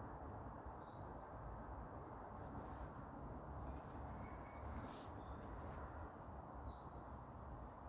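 Quiet outdoor ambience: a steady low rumble of wind on the microphone, with a few brief, high bird chirps scattered through it.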